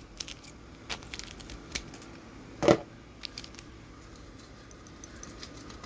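Crinkling and tearing of a small plastic sesame seasoning packet being opened and handled, with scattered light clicks and one louder knock about two and a half seconds in.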